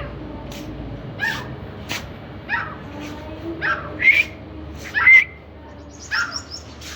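A series of short animal calls, about a dozen in all, each a quick sweep in pitch. The loudest come about four and five seconds in, over a steady low background hum.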